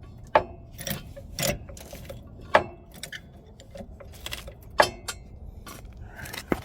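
Irregular sharp metal clanks and knocks, about four loud ones among smaller clinks, as a catalytic converter is wiggled and maneuvered against the exhaust and underbody of a car.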